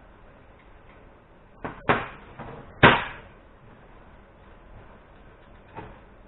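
A handful of sharp knocks from parts or tools being handled during motorcycle engine assembly: several close together, the loudest about three seconds in with a short ring after it, and one lighter knock near the end.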